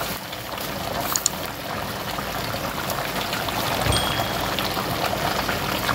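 Chicken, tomatoes and potatoes frying in oil in a cooking pot, a steady sizzle.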